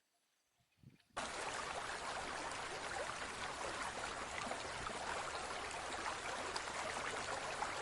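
About a second of near silence, then a steady hiss like flowing water that starts suddenly and runs on evenly with a fine crackle.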